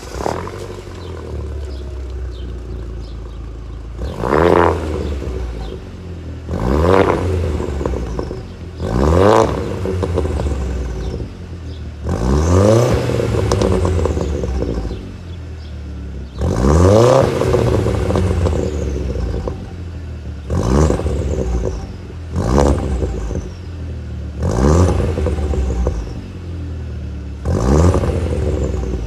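Audi A4 B5's 1.8-litre turbocharged four-cylinder idling and blipped about nine times, each rev climbing quickly and dropping back to idle, with exhaust crackles and pops as the revs fall.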